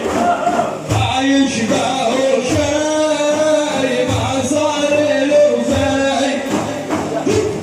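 Male voices singing an Islamic devotional praise chant (manqaba) in long held notes, over a low beat about every second and a half.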